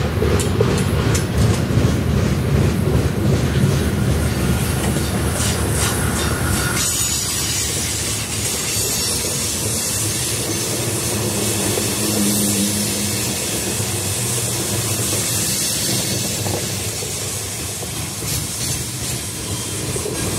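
Freight train cars rolling past, wheels clacking over the rails with a low rumble. About seven seconds in the sound turns to a steady high hiss.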